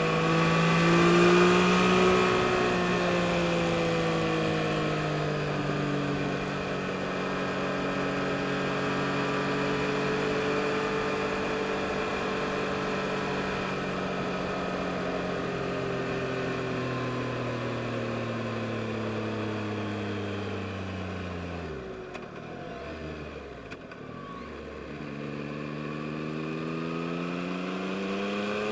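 Yamaha MT-09 SP's inline three-cylinder engine on the move. The revs swell briefly, then fall slowly as the bike slows and drop low about three quarters of the way through. Near the end the engine revs up again as it accelerates.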